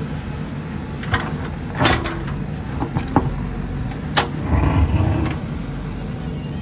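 JCB 3DX backhoe loader's diesel engine running steadily, with several sharp metallic knocks about one, two, three and four seconds in. A heavier, rougher swell of sound comes at about four and a half to five seconds.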